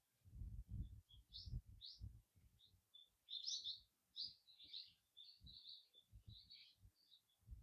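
Small wild birds chirping faintly: a run of short, high chirps in quick clusters, with faint low thuds underneath.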